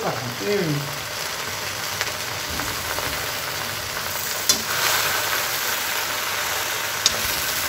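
Gongura (sorrel) leaves frying in oil in a metal kadai: a steady sizzle as they are stirred with a spatula, with two sharp clicks about four and a half and seven seconds in.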